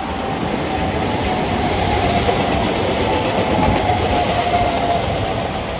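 A JR Kyushu electric commuter train passing close by: a steady rush of wheels on rails, with a thin high whine through most of it that fades out near the end.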